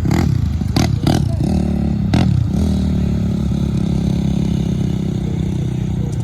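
A motor vehicle's engine running steadily, with a few sharp knocks or clatters in the first couple of seconds.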